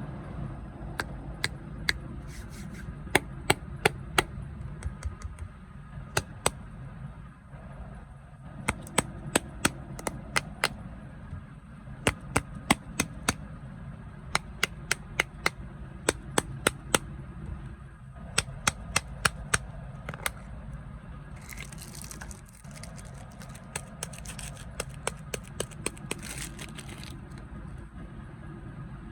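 Crunchy snacks crackling and snapping in sharp clicks, in runs of several a second, over a steady low hum. About three quarters of the way through comes a stretch of crinkling packaging.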